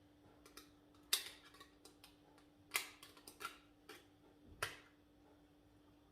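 Sharp clicks and taps of kitchen containers and utensils being handled, with three louder ones about a second, nearly three seconds and four and a half seconds in. A faint steady hum sits underneath.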